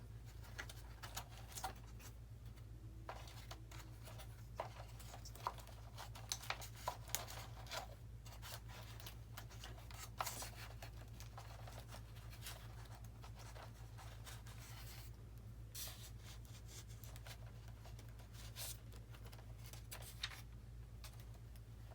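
Small handling noises from hands working on a model airplane's wiring: scattered clicks and scratches, busiest between about four and eight seconds in, over a steady low hum.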